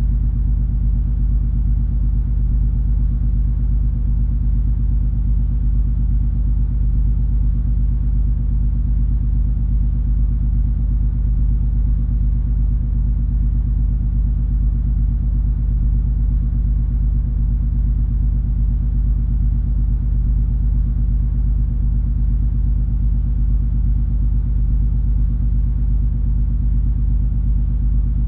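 Steady low drone of the cruise ferry MS Color Magic's engines and machinery under way, an even rumble with a low hum that does not change.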